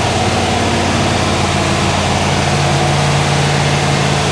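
Freshly rebuilt 396 big-block Chevrolet V8 in a 1967 Chevelle SS running steadily on its first fire-up. Its note shifts slightly about two seconds in.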